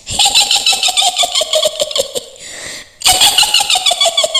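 Mak Lampir's high-pitched witch cackle, a rapid 'hihihi' in two runs that each slide down in pitch, with a short break between them.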